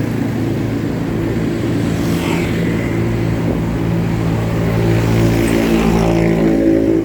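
Engine of a motor vehicle running close by in road traffic, over wind and road noise. It gets louder and slightly higher toward the end.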